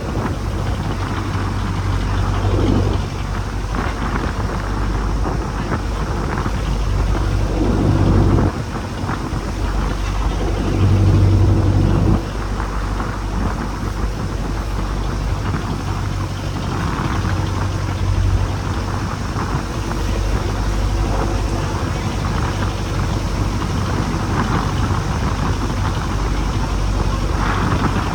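A boat's engine running steadily, with wind and rough water noise over it.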